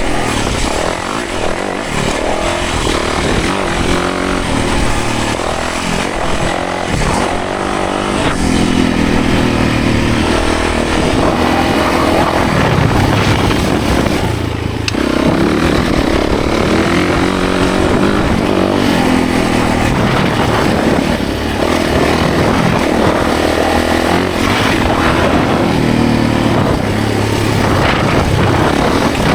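Yamaha 450 dirt bike's four-stroke single-cylinder engine being ridden hard, its pitch rising and falling continuously as the throttle opens and closes, with a brief drop about halfway through.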